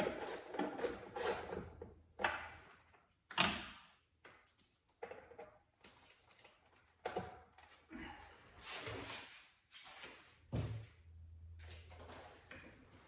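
Irregular knocks, clunks and scraping as tools and car parts are handled, with a faint low hum in the last couple of seconds.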